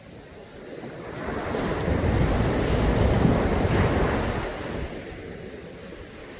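A Caribbean Sea wave breaking on the beach: the surf swells up about a second in, is loudest in the middle, then washes out and fades.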